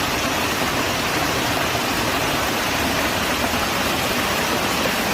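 Heavy thunderstorm downpour: a dense, steady rushing hiss of torrential rain that stops abruptly just after the end.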